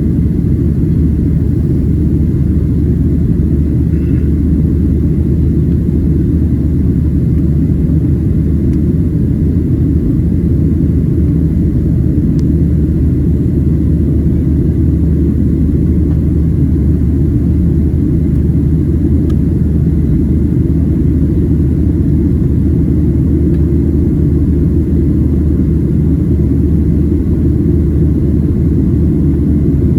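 Steady low rumble inside the cabin of a Boeing 737-700 in its climb. It is the sound of the CFM56-7B engines at climb thrust and of air rushing over the fuselage.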